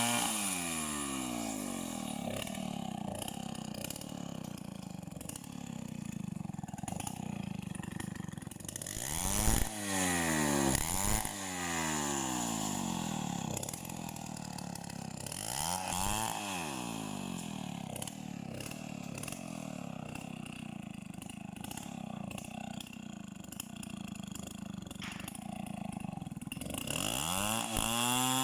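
Two-stroke chainsaw engine running, revved up sharply and dropping back several times: around the start, twice at about ten seconds in, at about sixteen seconds and again near the end, with a steadier lower engine note between the revs.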